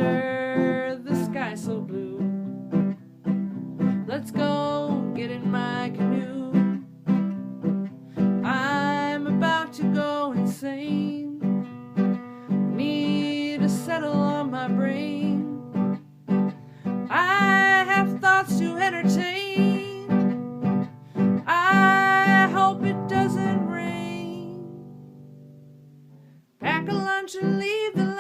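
Acoustic guitar strummed under a singing voice in a simple song. Near the end the guitar rings out and fades almost to nothing, then the playing starts again.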